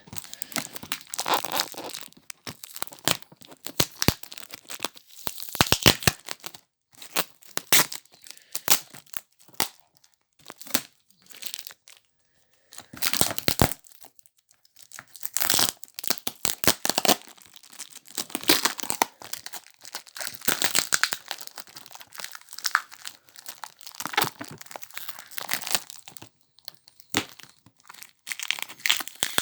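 Sellotape being picked at and peeled off a box by hand, in irregular bursts of tearing and crinkling with short pauses between.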